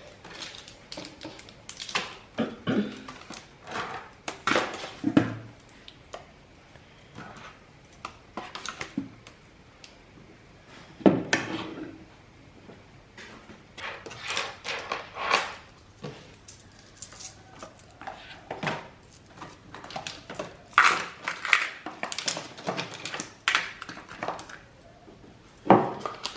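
Household items being handled and set down in a small room: irregular clattering and knocks of containers and objects, some louder than others.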